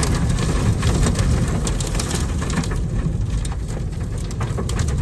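Strong storm wind roaring and buffeting the microphone, with many sharp crackles and taps over a heavy low rumble.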